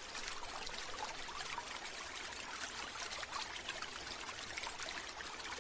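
Running water trickling and splashing steadily, like a small stream, as a relaxing background bed.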